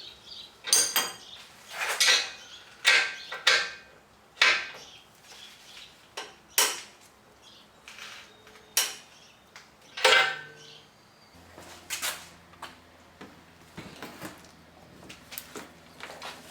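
Metal tools and bolt hardware clinking and clanking as they are handled: about a dozen sharp metallic knocks at irregular intervals, some ringing briefly. A steady low hum starts about two-thirds of the way through.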